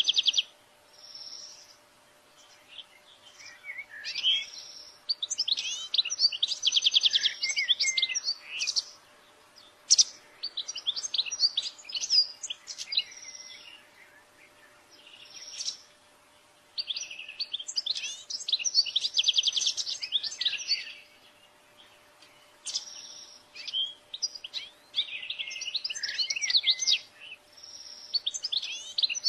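European goldfinch singing: bursts of fast, liquid twittering and trilled phrases lasting a few seconds each, with short pauses between them. A faint steady hum runs underneath.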